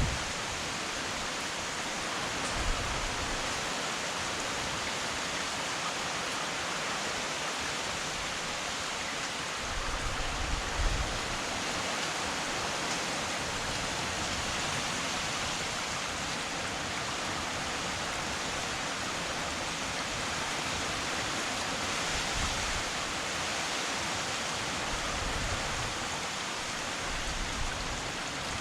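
Heavy rain pouring down in a steady, even hiss, with a short low rumble about ten seconds in.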